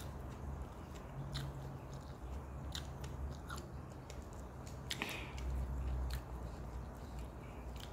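A person chewing a mouthful of rice, fried noodles and stir-fried kangkung, with occasional small clicks, over a low steady hum.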